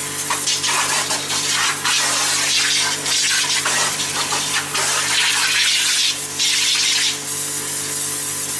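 Water spraying, the hiss swelling and dipping unevenly, over a steady low hum.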